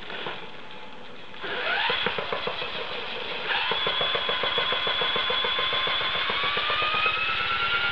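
HK450 TT Pro electric RC helicopter spooling up. The motor and rotor sound comes in with a rising whine about a second and a half in and steps up again near the middle. After that a fast, even beat runs under tones that slowly climb in pitch as the rotor speeds up.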